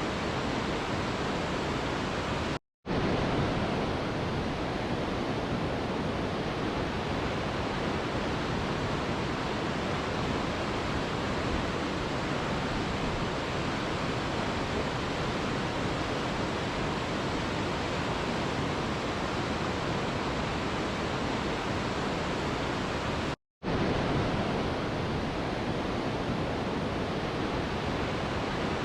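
Mountain river rushing with a steady, even roar of water. It cuts out to silence for an instant twice, about three seconds in and again about twenty-three seconds in.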